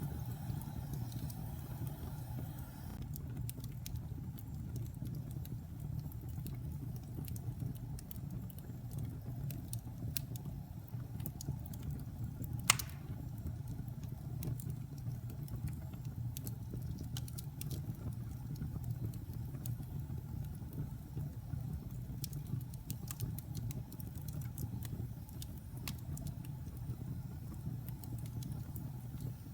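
Fire burning in a fireplace: a steady low rumble with scattered faint crackles and one sharp loud pop about halfway through.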